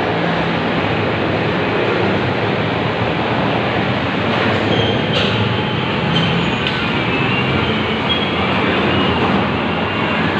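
Steady rumble of a moving vehicle, with a few light clicks and faint high squeaks about halfway through.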